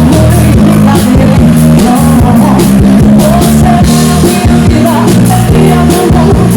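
Loud live arrocha band music: bass, keyboards and a steady drum beat, with some singing.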